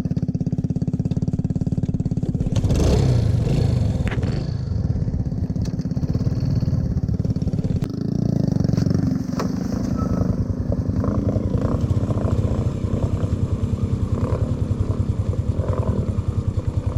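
Motorbike engine running steadily close by, with an even, rapid thumping beat that turns rougher for a moment about three seconds in and again around eight to ten seconds.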